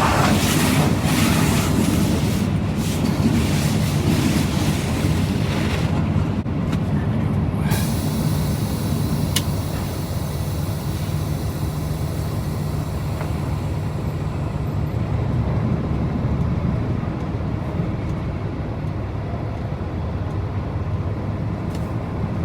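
Semi truck's diesel engine idling steadily while truck-wash water spray hisses against the truck for about the first six seconds. Once the spray stops, the engine's low hum carries on, with a single sharp click about nine seconds in.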